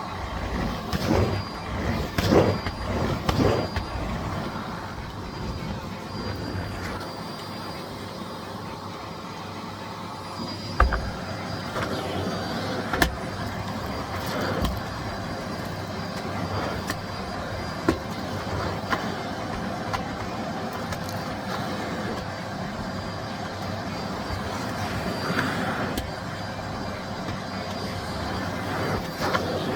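Miele Blizzard CX1 bagless cylinder vacuum cleaner running steadily with a whining motor tone while vacuuming the floor. It swells louder a few times in the first seconds, and a few sharp knocks come through, three of them in the middle part.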